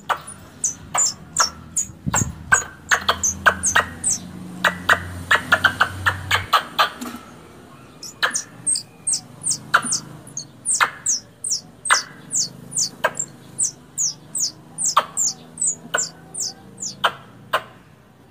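Squirrel calls used as a hunting lure: a long series of sharp, high, quickly falling chips, about two or three a second, that crowd into a rapid run a third of the way in before settling back to the steady pace.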